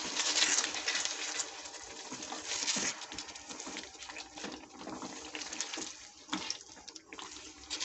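Chicken masala sizzling and bubbling in its gravy in a pan while a spatula stirs it, with irregular scrapes and knocks against the pan.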